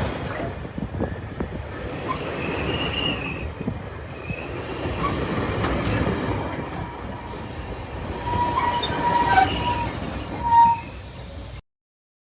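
Commuter train rolling into a station, steel wheels rumbling with high-pitched brake and wheel squeal as it slows, the squeal strongest in the last few seconds. The sound cuts off suddenly near the end.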